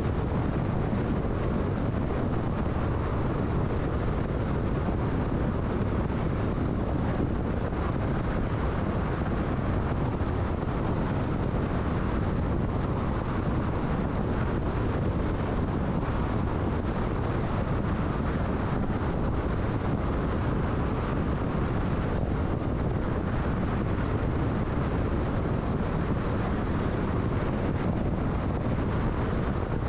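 Steady road and wind noise of a car cruising at freeway speed: a constant low rumble with a rush of wind over it.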